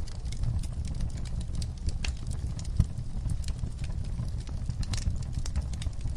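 Wood fire in a fireplace crackling: frequent sharp pops and snaps over a low steady rumble of the flames, with one louder pop about three seconds in.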